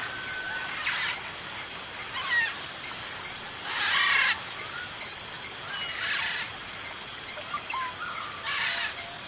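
Parrots chattering and squawking in harsh short bursts, the loudest about four seconds in, over a regular high ticking.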